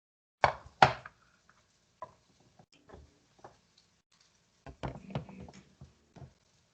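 Kitchen clatter of dishes and utensils being handled: two loud knocks just after the start, scattered light clicks, then a run of knocks about five seconds in.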